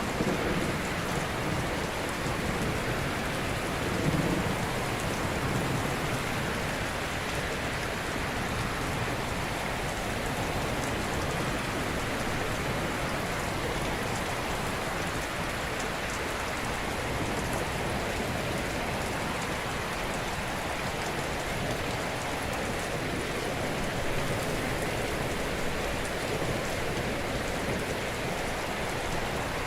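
Ocean surf: a steady wash of breaking waves, with a low rumble at the start and again about four seconds in.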